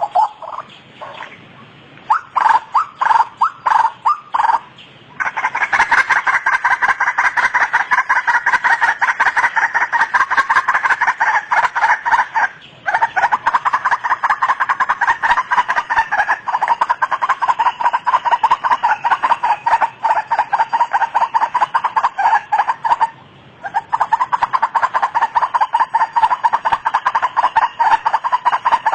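White-breasted waterhen calling: a few separate notes, then from about five seconds in a long, fast run of rapidly repeated notes, broken twice by brief pauses.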